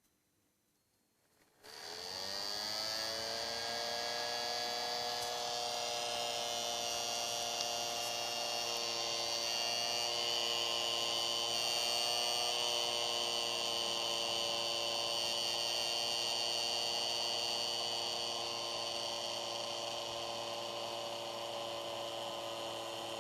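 SkyRC S60 battery charger's cooling fan speeding up about a second and a half in, rising quickly in pitch and then running at high speed with a steady hum and a high whine.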